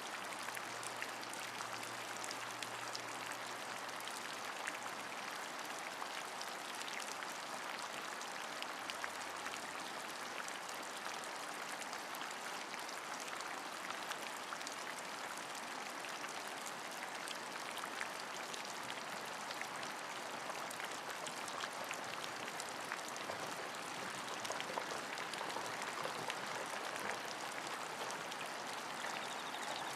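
Steady rain, an even hiss dotted with many sharp individual drop ticks, holding the same level throughout.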